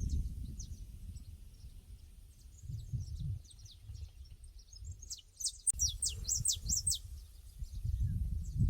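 Small birds chirping in a pasture, short high calls throughout with a louder, quicker run of them about five to seven seconds in, over a low rumble that swells and fades.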